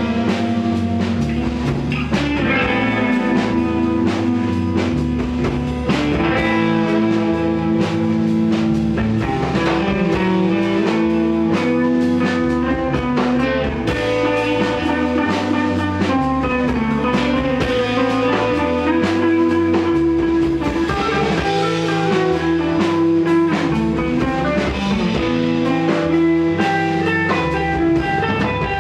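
Live rock band playing an instrumental passage: electric guitar with sustained, bending notes over a repeating bass line and steady drum kit beat.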